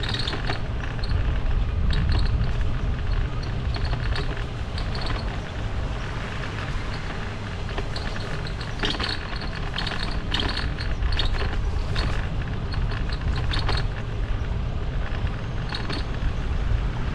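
Wind buffeting the microphone on a moving bike, a heavy low rumble, with short rattling clicks scattered through it.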